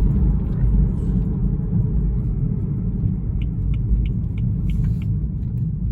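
Steady low road and engine rumble inside a moving car's cabin. From a little past halfway, the turn-signal indicator ticks about three times a second as the car turns off for a gas station.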